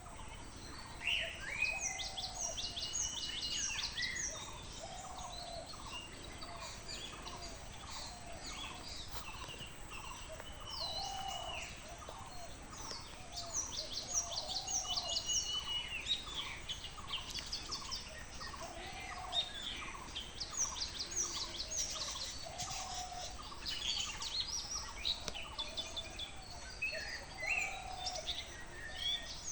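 Several birds calling and singing. Bursts of rapid, high chattering notes come a few times, over a lower call repeated about twice a second throughout.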